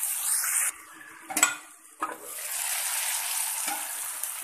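Cauliflower and yam pieces sizzling as they fry in a wok on medium heat. The sizzle drops away for about a second near the start, with a single sharp knock in the lull, then carries on steadily.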